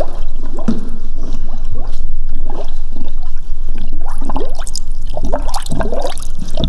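Honda coolant glugging and gurgling as it is poured from its jug, a quick run of glugs that sweep in pitch.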